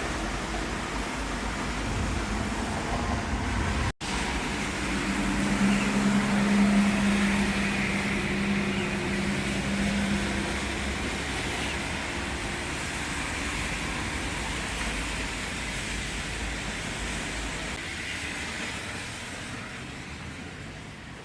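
Steady rushing noise of storm wind and rain, cutting out for an instant about four seconds in. Between about five and ten seconds in it swells louder, with a low steady hum running through it.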